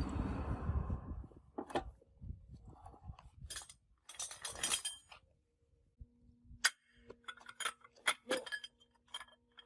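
Metal parts and hand tools clinking and knocking during work on a tractor's rear axle gearbox. It opens with a loud rush of noise lasting about a second, then comes a series of separate sharp metallic clinks, with a faint steady hum joining from about six seconds in.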